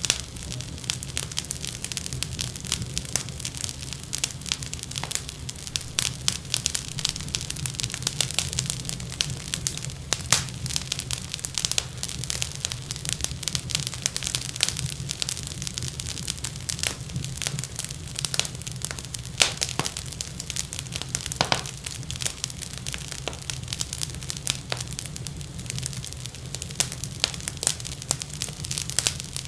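Wood fire crackling in a fireplace: dense, irregular small pops and snaps over a steady low rumble, with a few sharper, louder pops standing out.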